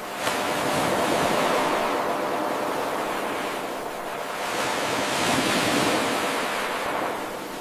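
Ocean waves washing on a shore: a steady rush of surf that surges abruptly about a third of a second in, eases in the middle, swells again and ebbs near the end, the swells of a short wave recording looped every eight seconds.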